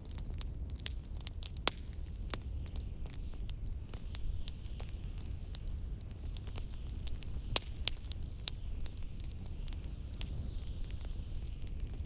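Wood fire crackling, with irregular sharp pops and snaps over a steady low rumble of blizzard wind.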